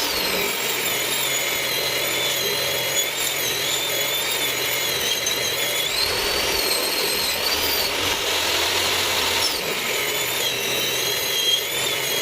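Table saw running a 14-inch blade on a 10-inch saw, cutting wood, its high whine wavering up and down in pitch as the load changes.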